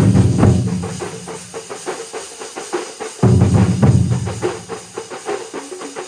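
Large drum ensemble of over a hundred percussionists playing together: a fast, continuous roll of stick strokes, with heavy booming low drum passages at the start and again about three seconds in.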